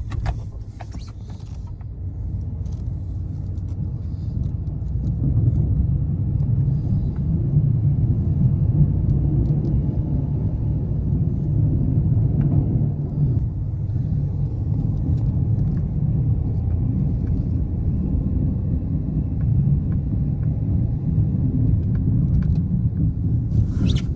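Pickup truck with a snow plow running while plowing a lot. A low engine rumble builds over the first few seconds, then holds steady.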